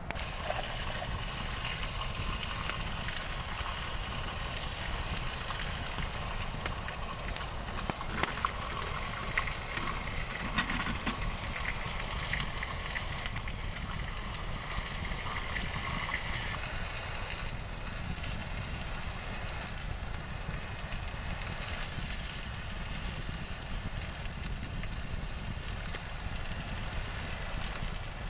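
Wind rumbling steadily on the microphone, with scattered small clicks and crackles throughout.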